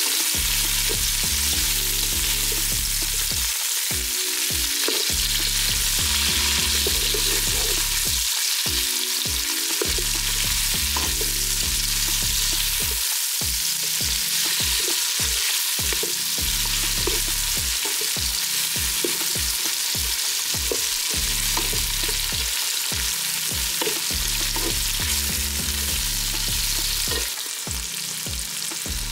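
Food sizzling steadily as it fries in oil in a hot pan, the sautéing stage of Jamaican steamed cabbage and saltfish. It turns a little quieter near the end.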